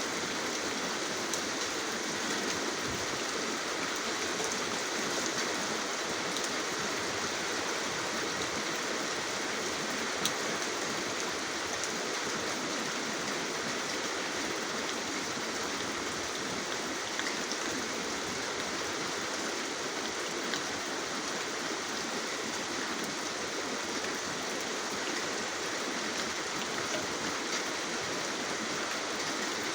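Steady rain: a dense, even hiss with a few sharper single drop ticks here and there.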